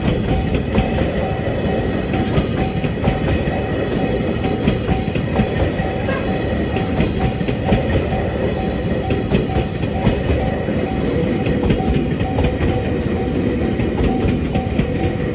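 M250 series Super Rail Cargo electric freight train rolling past, a continuous loud rumble with frequent clicks of wheels over rail joints and a steady high tone running through it.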